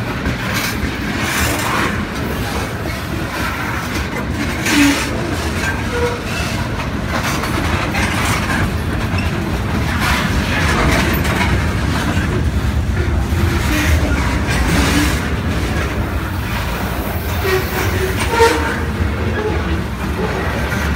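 Freight train cars, tank cars and then covered hoppers, rolling past at close range. There is a steady low rumble with wheels clattering over the rail joints, and a couple of brief squeaks, one about five seconds in and one near the end.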